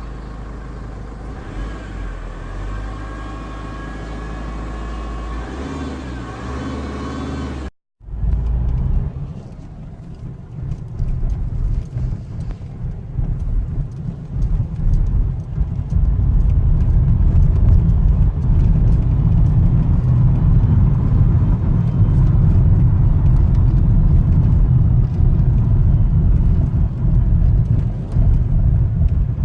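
Opel Astra H 1.9 CDTI diesel running, with gliding whine-like tones over the engine for the first several seconds. After a break about eight seconds in, a heavy low rumble takes over and grows louder from about sixteen seconds.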